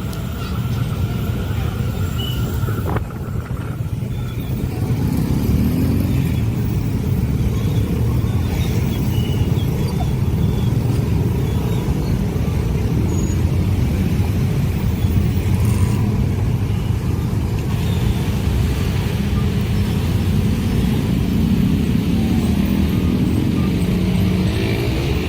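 Train passing a level crossing: a steady low rumble that grows a little louder after the first few seconds and stays even.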